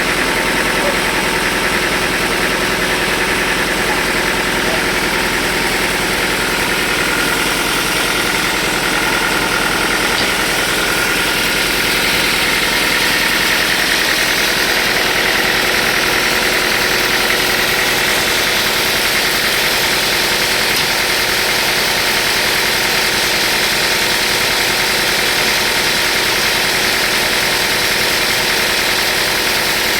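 Sawmill machinery running steadily: a loud, continuous mechanical drone with a faint high whine that moves up in pitch about twelve seconds in.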